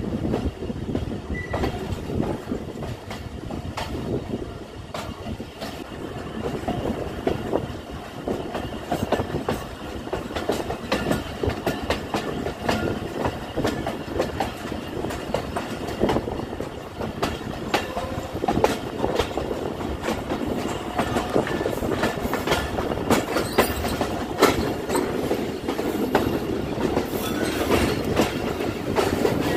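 Moving passenger train heard from a coach's open doorway: the steel wheels clatter over rail joints and points in a steady run of sharp clicks over the rumble of the coaches.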